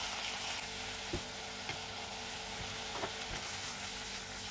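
Minced meat and onion sizzling in a pot as corn and chopped peppers are tipped in and stirred with a silicone spatula, with a few light knocks of the spatula against the pot.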